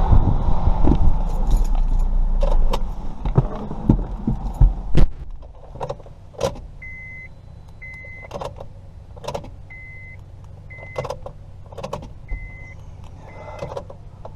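A low rumble with knocks and clicks in a car, which drops away about five seconds in. Then a 2005 Honda Civic's warning chime gives short, high beeps in pairs, with sharp clicks of keys and the ignition lock in between.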